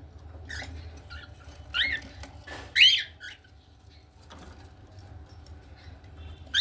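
Cockatiels chirping: a few short rising-and-falling calls, the loudest two about two and three seconds in.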